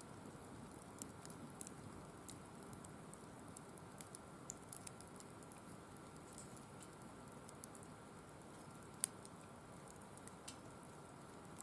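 Firewood burning, giving off scattered small sharp crackles and pops over a low steady background, with one louder crack about nine seconds in.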